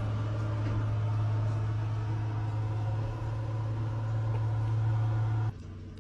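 Caterpillar D9 bulldozer's diesel engine running at a steady speed with a constant low drone. The sound cuts off abruptly about five and a half seconds in.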